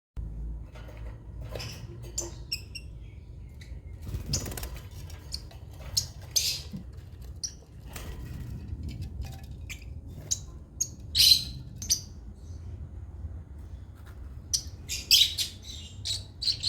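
African lovebirds calling with short, shrill chirps and squawks at irregular intervals, loudest in a cluster about two-thirds of the way through and again near the end, over a steady low background hum.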